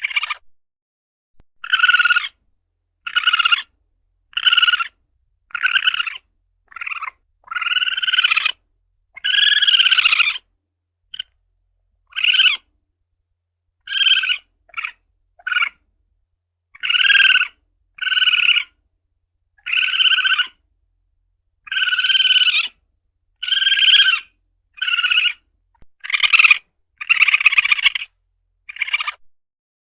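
Asian palm civet (luwak) calling: a string of short, high-pitched cries, roughly one every second or so. Some are clipped and brief and some are drawn out to about a second, with dead silence between them.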